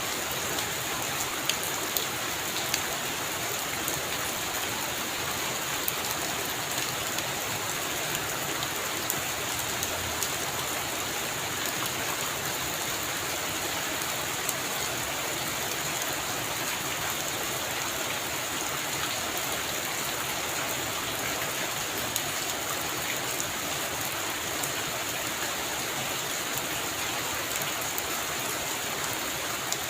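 Heavy rain falling steadily on a roof, a dense even hiss with scattered sharper drop impacts. No thunder is heard.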